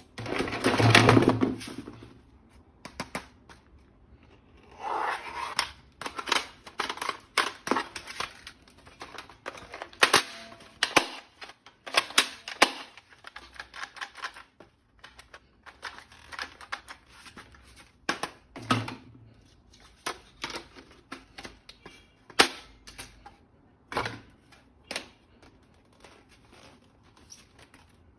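Handling noises of a plastic toy gun and its packaging: a burst of rustling about a second in and another around five seconds, then scattered sharp plastic clicks and knocks.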